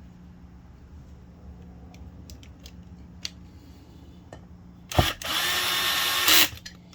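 Power drill running a bolt into the septic aerator pump's housing, a single steady run of about a second and a half near the end that starts with a sharp click and stops abruptly. Before it come faint clicks of parts being handled.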